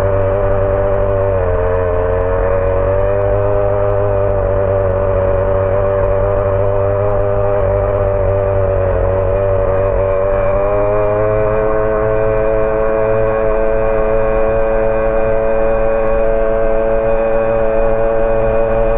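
HPI Savage X4.6 nitro monster truck's small two-stroke glow engine running at high revs, a steady high-pitched buzz with a few brief dips in pitch.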